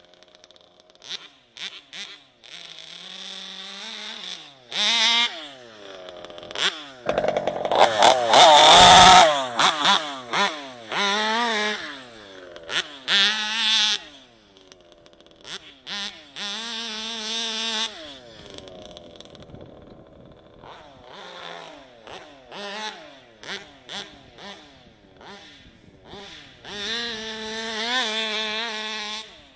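ALX 71 two-stroke engine of a large-scale RC buggy with a tuned torque pipe, revved in repeated bursts with its pitch rising and falling and dropping back to a low idle between them. The loudest, highest-revving burst comes about eight seconds in. This is a test and tune run after a rebuild.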